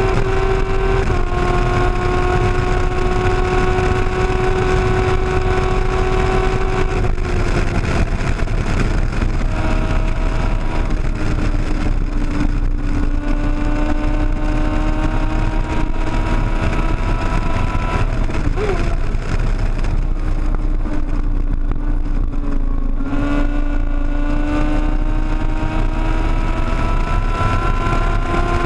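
Sportbike engine running hard at highway speed over loud wind rush. The engine pitch holds steady, drops about a quarter of the way in and again near the end, then slowly climbs as the bike pulls.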